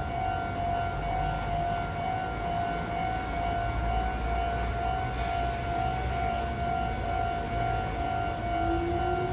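Meitetsu 6800 and 6500 series electric train: a steady high whine over a low rumble. Near the end a second tone starts rising in pitch, like a traction motor winding up as the train gathers speed.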